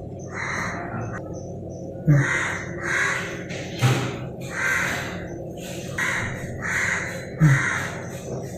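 Repeated harsh bird calls, roughly one or two a second, with a few dull knocks underneath.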